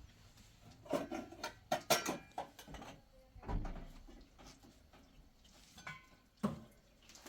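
Clinks and knocks of hard objects being handled, like dishes or utensils, in a quick cluster about one to three seconds in, another knock around three and a half seconds, and a single sharp knock near the end.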